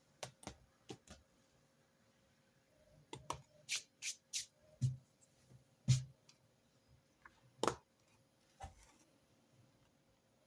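Stationery being handled at a desk: about a dozen irregular, sharp clicks and taps, a quick run of them in the middle and the loudest near the end.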